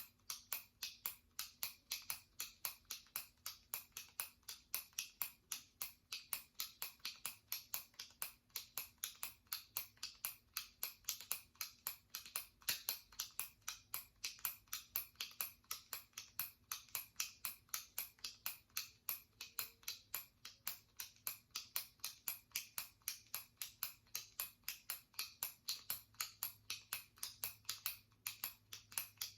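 Jumbo retractable pen's push-button top being pressed over and over, giving a steady run of sharp plastic clicks about three a second.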